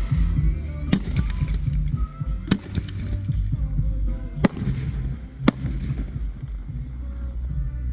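Fireworks going off in sharp bangs, four of them spaced a second or two apart, over music playing.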